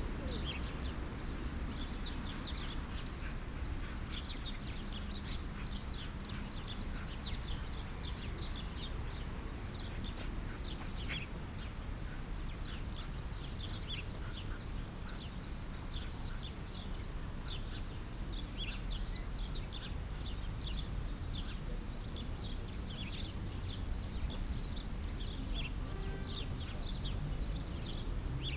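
Small birds chirping busily, many short high chirps a second, over a low steady background rumble.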